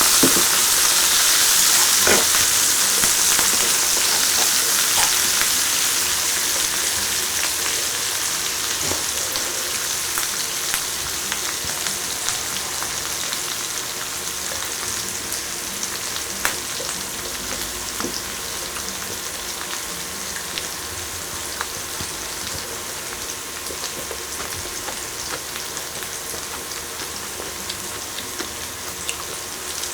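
Beef tripe (gopchang) sizzling on an electric grill: a dense frying hiss with scattered pops, loudest in the first few seconds and slowly dying down.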